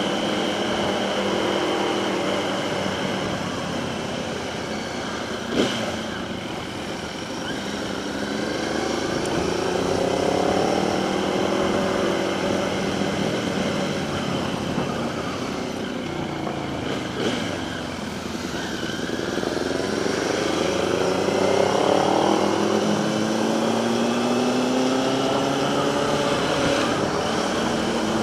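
Motorcycle engines running while riding, the pitch rising and falling several times as the bikes accelerate and ease off, over steady wind rush on the rider's microphone.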